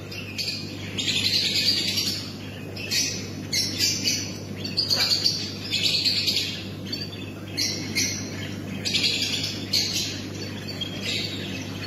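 Birds chirping and chattering in short high-pitched bursts, roughly one a second, over a steady low hum.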